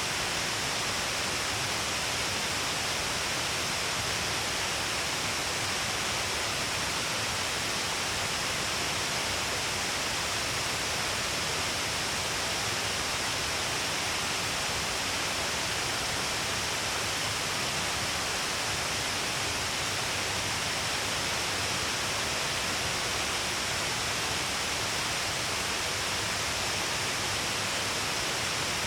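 Shiraito Falls, many falls pouring down along a cliff face, giving a steady, even rush of falling water with no change in level.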